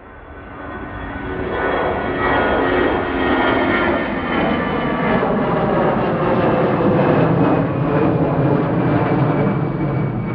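Jet airliner passing close by, its engines loud, with a steady whine over the rush; it swells over the first two seconds and then holds.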